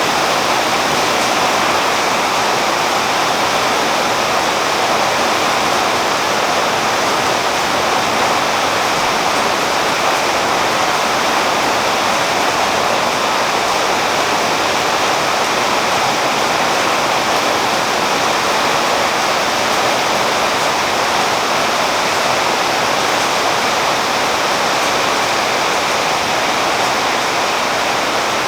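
Rain falling steadily on a tree's leaves, an even hiss with no single drops or gusts standing out.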